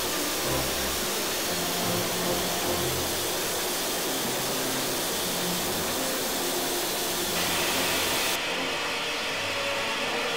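A steady, loud hiss that changes tone abruptly about three-quarters of the way through, with faint low notes beneath.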